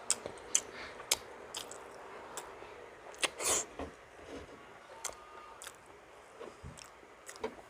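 Close-up chewing with wet lip smacks: irregular sharp mouth clicks about every half second, with a louder hissy smack about three and a half seconds in.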